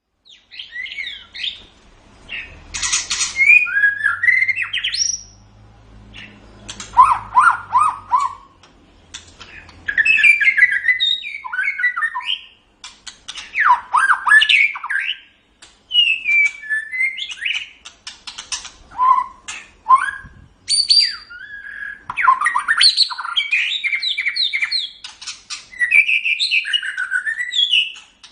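White-rumped shama (murai batu) singing: bursts of fast, varied phrases of whistles, trills and harsh notes, separated by short pauses of about a second.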